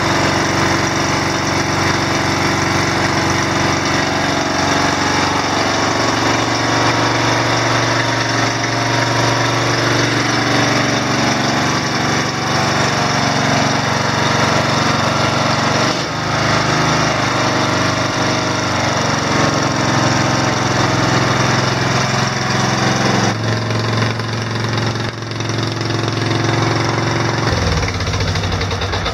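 Straight-piped Briggs & Stratton OHV small engine, with no muffler, running steadily after a cold start following about 10 or 11 months unused. About 23 seconds in its speed drops to a lower steady pitch, and near the end it slows and starts to die down.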